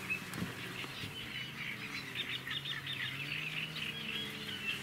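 Small birds chirping and whistling, with a thick run of quick chirps in the middle, over a faint steady low hum.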